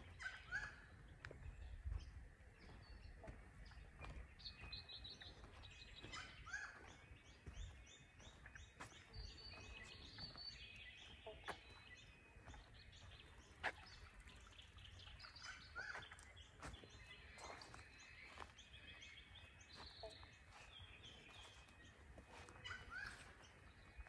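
Wild birds calling and chirping, faint: quick runs of short high notes, with a lower, rising call every few seconds, over a low rumble.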